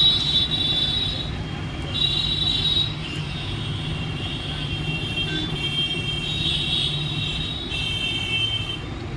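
Steady low background hum under a shrill, high insect trilling that holds and then shifts pitch every second or two.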